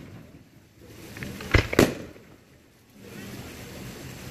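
Aerial firework shells bursting: two sharp bangs in quick succession about a second and a half in, with quieter steady noise of the show around them.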